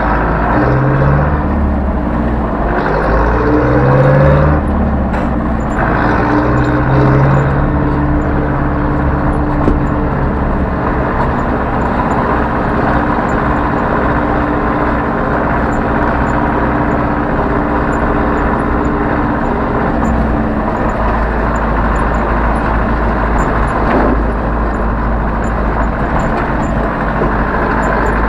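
Zetor 7011 tractor's diesel engine running while the tractor drives, revving up and dropping back a few times in the first several seconds, then running at a fairly steady pitch.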